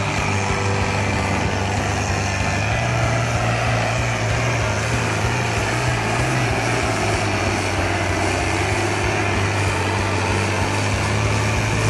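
Tractor engine running steadily, with a strong low note that rises slightly a few seconds in and eases back about halfway through.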